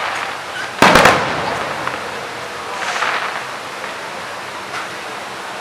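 Fireworks display: a sharp double bang of a shell bursting about a second in, then a softer, fading burst around three seconds, with scattered faint crackles between.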